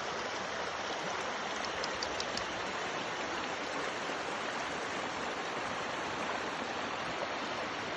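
Steady, even rushing noise that holds without a break, with a few faint ticks about two seconds in.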